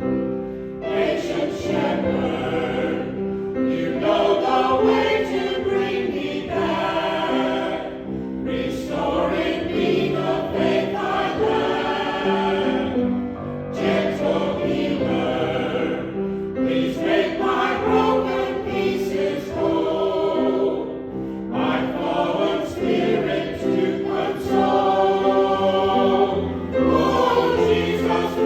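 Church choir singing over a steady sustained accompaniment, in phrases of a few seconds broken by short pauses for breath.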